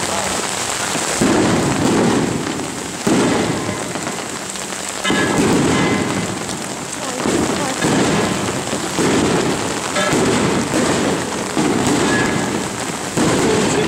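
Heavy rain pattering on umbrellas and plastic rain ponchos, with a low rumbling surge about every two seconds.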